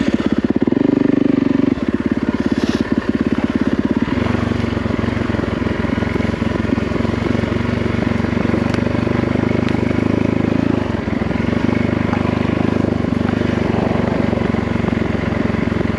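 Yamaha WR450F dirt bike's single-cylinder four-stroke engine running under way. The engine note changes about two seconds in, again about four seconds in, and once more near eleven seconds.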